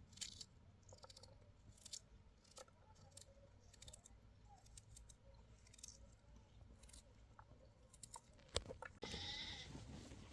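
Near silence with faint scattered clicks and taps, and faint bleating of livestock.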